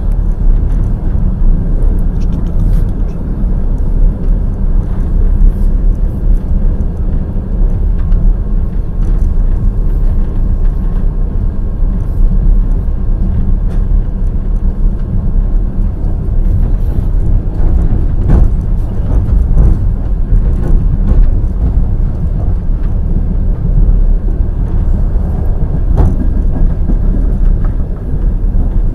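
Passenger train wheels running on the rails, a steady low rumble with a few sharp clicks, the clearest about 18 and 26 seconds in.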